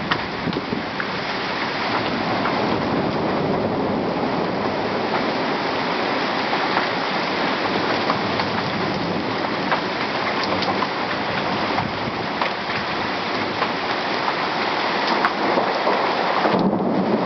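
Heavy rain pouring steadily in a thunderstorm, with scattered drops ticking close by. Near the end a rumble of thunder builds.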